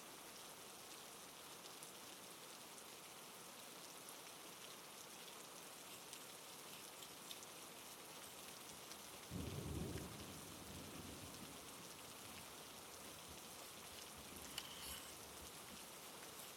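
Faint, steady rain pattering, with a short low rumble of thunder about nine seconds in that fades over a second or two. A single small tick comes near the end.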